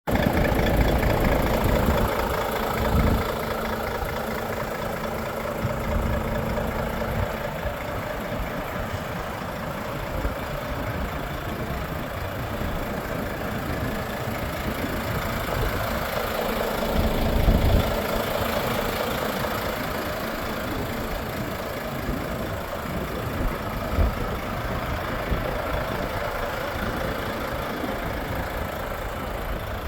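Volvo FH 460 truck's 13-litre six-cylinder diesel engine idling steadily, with a few brief low thumps.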